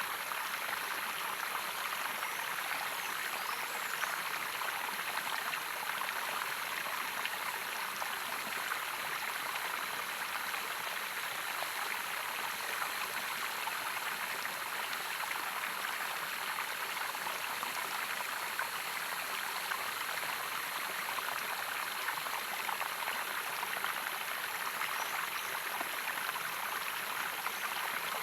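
Running water of a stream or waterfall, a steady, even rushing and splashing with no change in flow.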